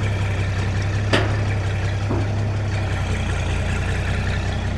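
Six-cylinder diesel tractor engine idling steadily, with a sharp metallic click about a second in and a fainter one a second later.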